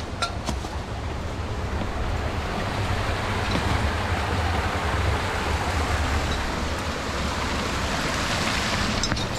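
Steady rush of water in a mountain ravine, the sound of the waterfall and its stream, with a low wind rumble on the microphone and a few faint clicks near the start and end.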